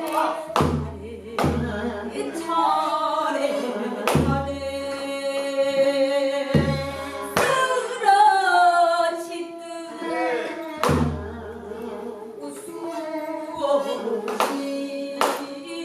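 Pansori singing, long sustained and bending vocal lines, accompanied by strikes of a buk barrel drum landing every second or few seconds.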